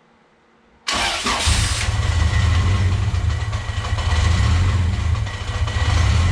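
Rebuilt Honda H22A four-cylinder engine starts about a second in: it cranks briefly, catches, then idles unevenly, its level rising and dipping. The owner puts this uneven idle down to idle control valve trouble.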